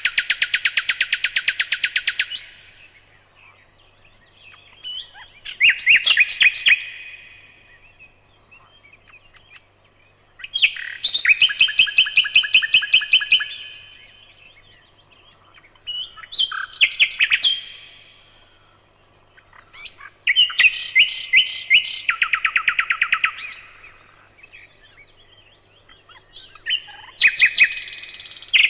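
A nightingale singing. Six phrases of a few seconds each, every one a fast run of repeated notes, separated by pauses of two to three seconds.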